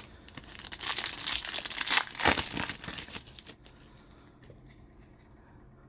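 Trading card pack wrapper crinkling as it is torn open and handled, stopping about three and a half seconds in.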